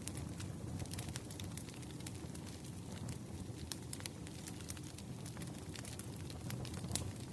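Firewood burning: a steady low rumble of flames with sharp crackles at irregular intervals.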